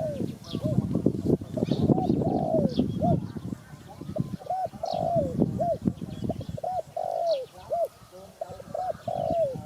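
Spotted dove cooing: a long run of short, arched coo notes repeated over and over, over a low rumbling background noise, with faint high chirps of another small bird.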